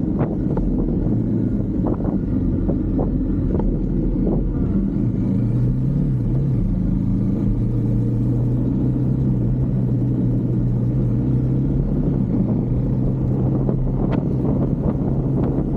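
Husqvarna Svartpilen 401's single-cylinder engine running at a steady road speed; its pitch rises a little about five or six seconds in and then holds.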